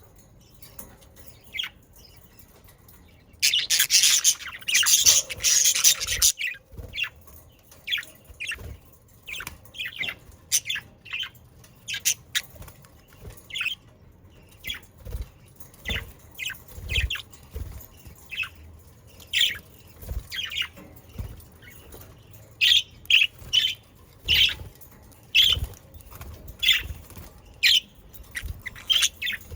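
Budgerigars chirping and squawking in short, separate calls, many per second at times. About three and a half seconds in comes a loud rush of wing flapping lasting a couple of seconds.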